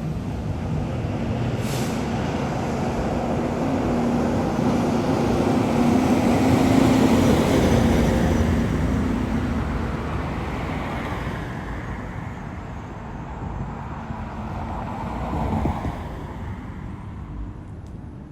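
Heavy refuse truck driving past, its engine and road noise growing louder to a peak about seven seconds in and then fading away.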